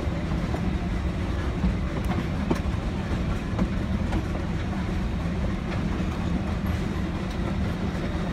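Steady rumble of an open passenger car rolling along narrow-gauge track in a steam-hauled train, with scattered faint clicks of the wheels over the rails.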